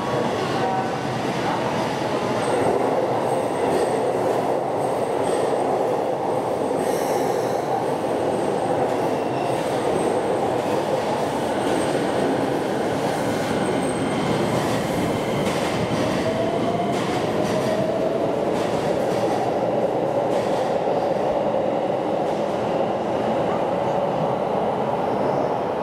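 Steady rumble of trains at a station platform, with a faint rising whine about two-thirds of the way through.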